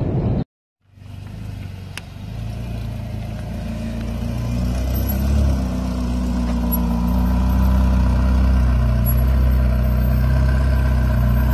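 Ferrari California V8 engine running at low revs as the car moves slowly, growing louder over the first several seconds, then holding steady. It starts after a brief moment of road noise that cuts off suddenly.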